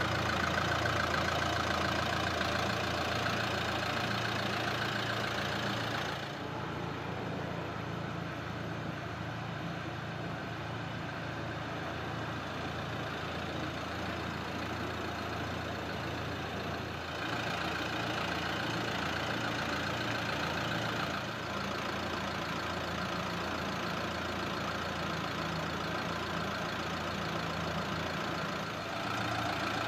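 Nissan Juke's 1.5 dCi four-cylinder turbodiesel engine idling steadily, its loudness stepping down and back up a few times.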